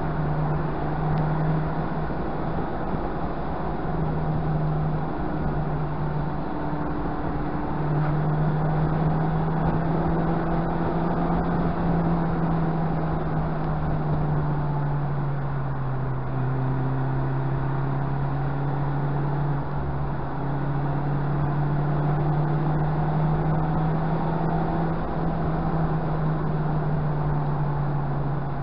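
Mazda MX-5's four-cylinder engine pulling at varying revs, its note dropping out briefly a few times early on, then sinking slowly around the middle and rising again, over steady tyre and road noise.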